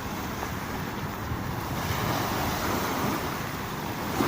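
Sea waves washing up on the beach, a steady wash that swells a little about halfway through.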